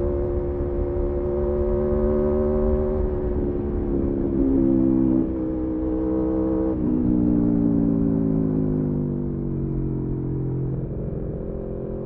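Aprilia Tuono V4 motorcycle engine running under way at steady revs, with its pitch shifting abruptly a few times in the middle as the throttle and gears change. The revs then fall slowly as it slows and start climbing again near the end.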